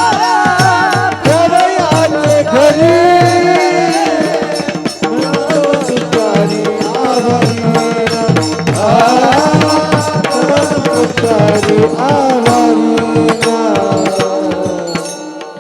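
Devotional kirtan music: a long, ornamented vocal line with wavering held notes, sung without clear words, over tabla strokes, rapid sharp percussive clicks and a steady sustained harmonium drone. The music fades out near the end.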